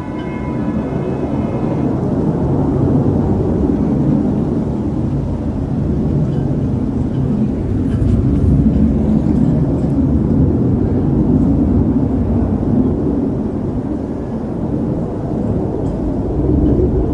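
Jet noise from an F-35A Lightning II's single F135 turbofan as the fighter passes, a deep rumble that builds over the first couple of seconds and then holds loud. It eases slightly about fourteen seconds in, then swells again near the end.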